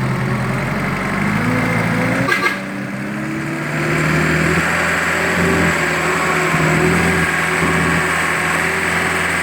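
Motorbike engine running through a loud aftermarket exhaust. The pitch climbs about two seconds in, then holds at higher revs, louder and steady, from about four seconds in.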